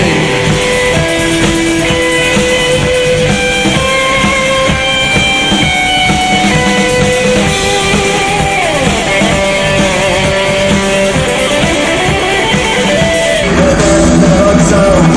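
Instrumental break of a rock song: a lead guitar plays a melody of held notes with a few bends, over bass and a steady drum kit beat. Near the end the band gets fuller and louder.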